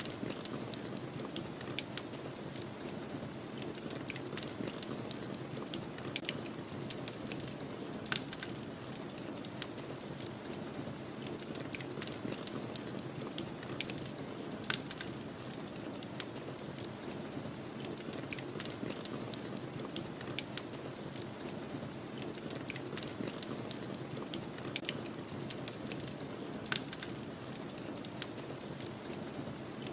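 Wood fire crackling, with frequent irregular sharp pops and snaps, over a steady low rush of snowstorm wind.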